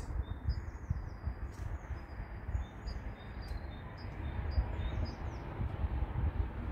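A small songbird chirping again and again in short, high, hooked calls, over a low fluttering rumble.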